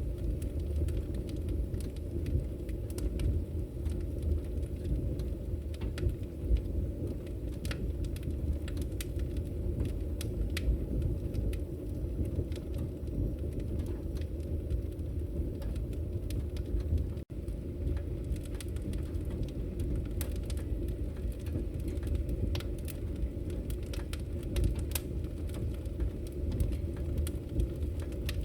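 Wood fire burning in a fireplace: a steady low rumble of flames with frequent, irregular sharp crackles and pops from the burning logs. The sound cuts out for an instant about 17 seconds in.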